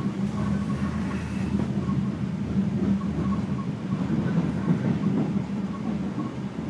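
Passenger train running, heard from inside the carriage: steady running noise with a low hum.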